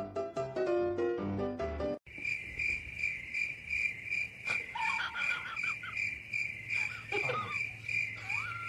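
Piano-like music for about two seconds, then a steady high chirping that pulses two or three times a second, with short wavering calls over it around the middle and again near the end.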